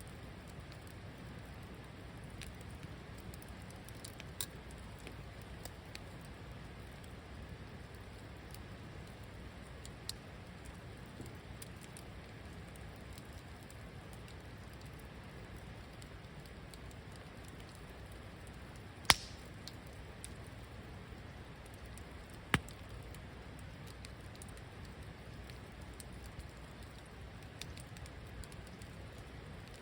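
Wood fire burning in a fire pit, crackling with scattered small snaps over a steady low rush. Two loud, sharp pops stand out about two-thirds of the way through, a few seconds apart.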